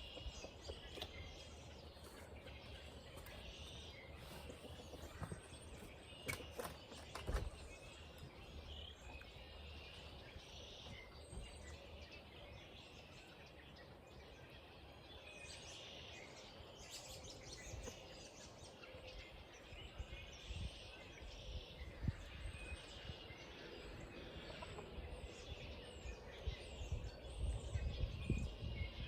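Small birds chirping sporadically, with a few sharp knocks about six to seven seconds in and a low rumble building near the end.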